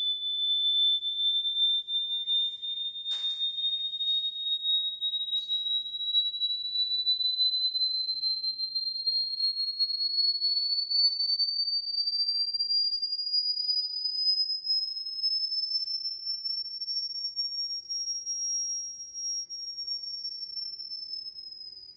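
A single pure, high-pitched electronic tone, like a sine-wave test tone, held steadily while its pitch glides slowly upward over about twenty seconds, then dips slightly and fades out near the end. A faint click comes about three seconds in.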